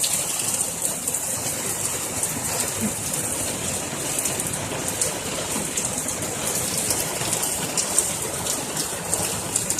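Heavy rain pouring steadily, a dense hiss of drops with many small ticks, typical of rain drumming on a vehicle's metal roof and the ground.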